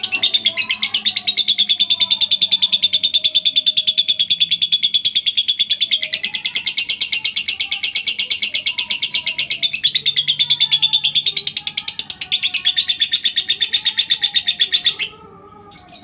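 Lovebird's long ngekek: a loud, very rapid, high-pitched chattering trill of about ten pulses a second, kept up with only brief breaks and stopping abruptly near the end. Faint lower chirps from other birds sit beneath it.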